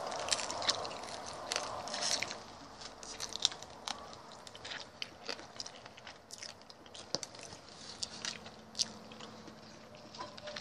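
A person chewing shashlik close to the microphone: irregular wet smacks and crunchy clicks of a mouth eating, a little louder in the first couple of seconds.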